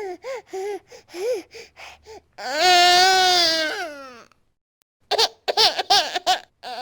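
Baby crying hard: a run of short, hiccuping sobs, then one long loud wail about two and a half seconds in that falls away at its end, and after a short pause more quick sobs.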